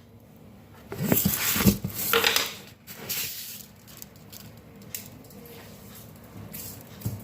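Kitchen utensils and a cooking pot clattering in a few short bursts, followed by a few lighter knocks, as salt is added to meat in the pot.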